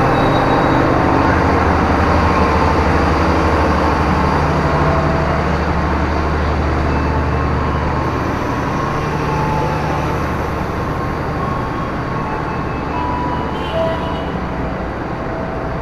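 Steady low engine rumble of a diesel train running, with general noise over it, slowly fading.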